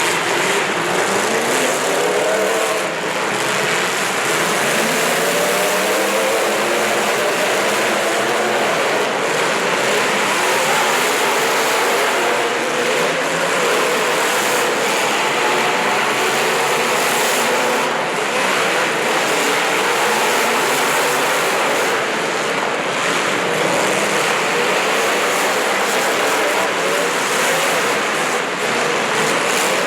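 Racing engines running and revving: several engine notes rise and fall in pitch over one another.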